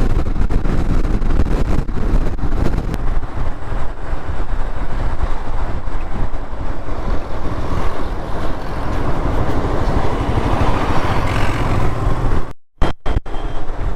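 Motorcycle riding at speed in strong wind: heavy wind buffeting on the microphone over engine and road noise. The sound cuts out briefly near the end.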